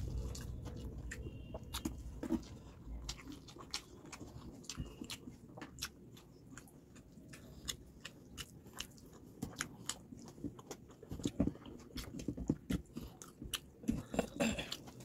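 Close-miked eating sounds: wet chewing, lip smacks and mouth clicks of someone eating rice and fish curry, with fingers squishing and mixing rice on a plate. Background music fades out in the first couple of seconds.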